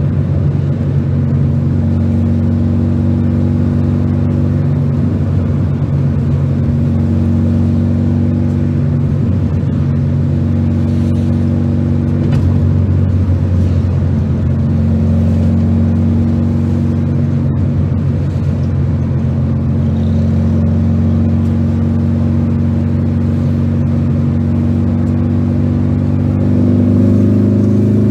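A 1973 VW Super Beetle's air-cooled flat-four engine, on dual Weber carburettors, running under way, heard from inside the cabin. The engine note steps up and down in pitch a few times, climbs near the end, then falls away quickly.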